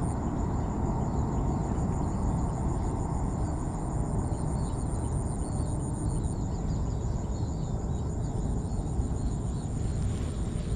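Steady low rumbling noise with no distinct knocks, and insects trilling faintly and continuously high above it.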